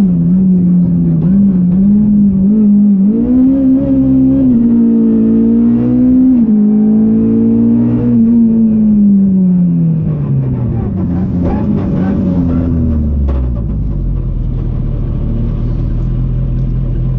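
Ford Fiesta R200 rally car's four-cylinder engine heard from inside the cabin, pulling at moderate, wavering revs. About eight seconds in the revs fall away smoothly as the car slows, and near the end the engine settles to a low, steady drone.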